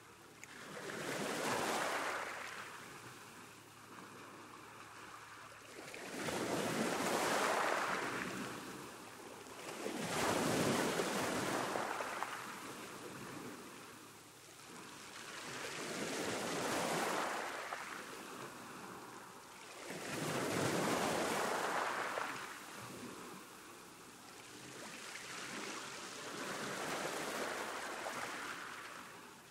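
Sea waves breaking on a shore, each surge of surf swelling and washing back in a steady rhythm, about one every four seconds.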